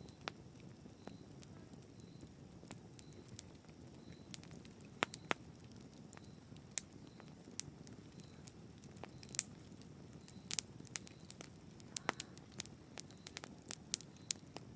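Wood fire in a fireplace crackling, with many sharp irregular pops and snaps over a steady low rumble of flame.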